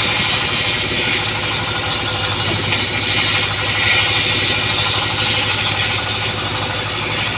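An engine running steadily with an even low drone, under a steady hiss.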